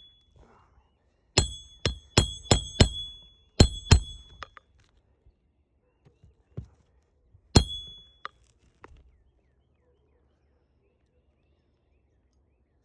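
Roofing hatchet driving a roofing nail into an asphalt shingle, each blow giving a ringing metallic clink. A quick run of five strikes, then two more, then a single blow and a few lighter taps.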